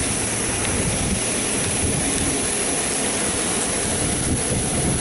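Steady rushing noise of an automatic touchless car wash running, with no breaks or changes.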